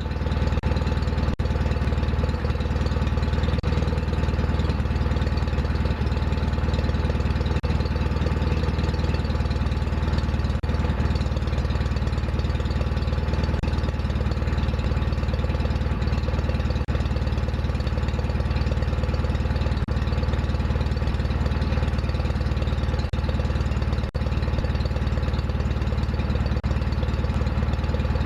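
John Deere 316 lawn tractor engine running steadily at an even speed with a deep hum.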